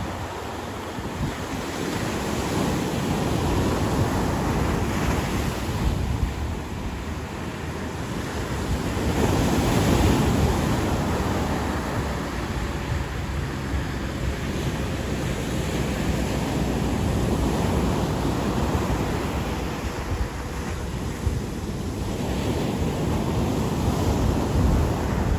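Ocean surf washing onto a beach in a continuous rushing wash that rises and falls, swelling with a bigger wave about ten seconds in and again near the end. Wind buffets the microphone with a low rumble underneath.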